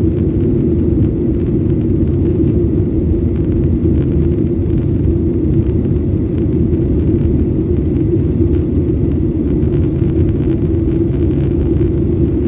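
Steady low cabin rumble of a Boeing 737-800 airliner in flight after takeoff: its CFM56-7B jet engines and airflow heard from inside the passenger cabin.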